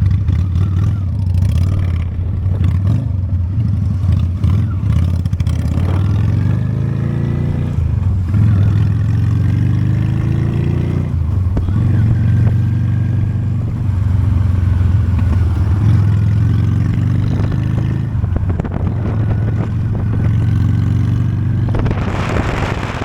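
Onboard sound of a Honda Steed V-twin motorcycle engine pulling away and accelerating, its pitch climbing and dropping back several times as it shifts up through the gears. Wind rush on the microphone rises near the end.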